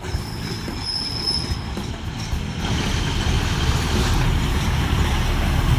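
Train running on the rails with a low rumble that grows louder, and a high steady metallic squeal during the first second and a half.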